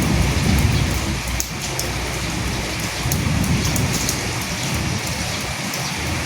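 Steady rain falling on dead leaves, a dense hiss dotted with individual drops ticking. A low rumble swells near the start and again about three seconds in.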